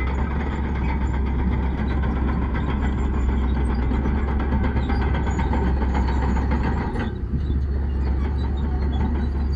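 Heavy diesel earthmoving machinery running steadily with a deep engine drone and mechanical clatter. About seven seconds in, the higher clatter drops away suddenly and the low drone carries on.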